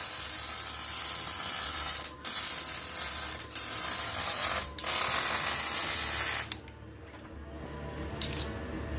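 Electric welding arc crackling and hissing in runs of one to two seconds with brief breaks between them, stopping about six and a half seconds in.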